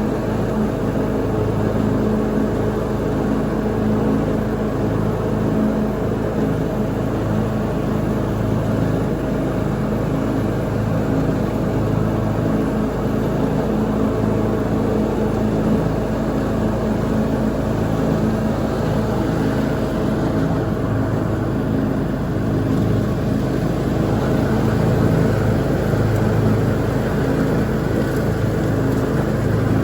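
Lawn mower engine running steadily under load, a constant hum with only slight swells in level.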